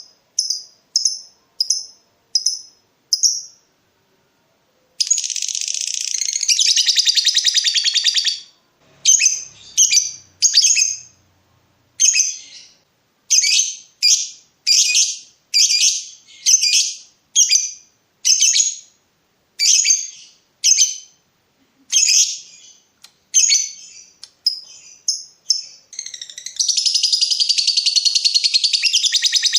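Lovebird calling: a run of short, sharp, high chirps, one every half second or so, broken by a long, rapid chattering trill (the ngekek) from about five to eight seconds in, and another starting near the end.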